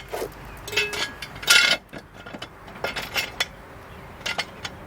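Floor jack being pumped to lift the car: a series of metallic clinks and clanks from the handle strokes, in clusters about a second apart, the loudest about one and a half seconds in.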